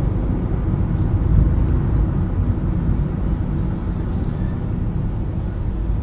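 Car driving: a steady low rumble of engine and tyres on the road.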